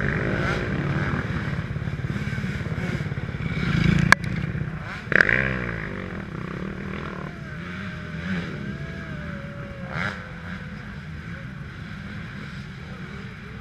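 Motocross bike engines running, with a steady drone throughout. There is a sharp knock about four seconds in and a loud burst falling in pitch about five seconds in, like a bike passing.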